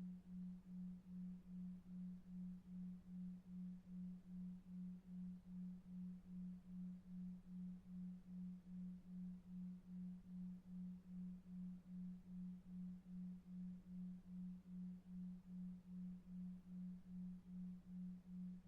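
Low steady tone pulsing evenly about two and a half times a second, a 2.5 Hz delta-wave sleep tone, over faint brown noise.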